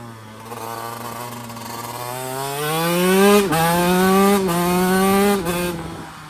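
2016 TM Racing SMR 125 two-stroke single-cylinder engine accelerating hard through the gears. The revs climb, then drop sharply and climb again three times as it shifts up, and fall away near the end as the throttle closes.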